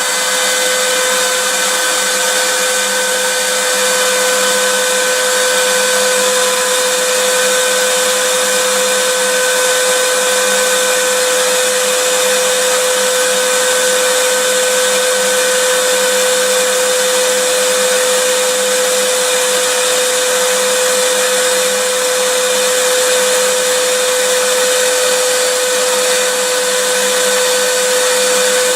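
Vacuum cleaner running steadily, a constant rushing hiss of air with a steady motor whine.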